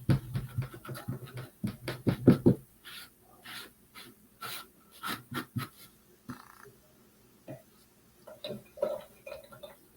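A paintbrush dabbing and tapping paint onto a wooden birdhouse: a quick run of short taps and soft knocks for the first couple of seconds, then scattered lighter dabs and clicks.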